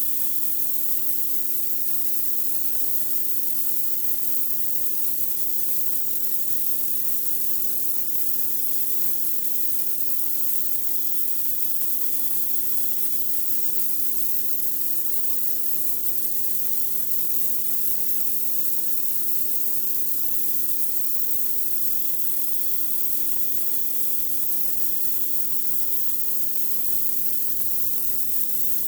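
Pressure washer spraying water onto a concrete driveway: a steady, loud hiss of the high-pressure jet over the constant hum of the machine running.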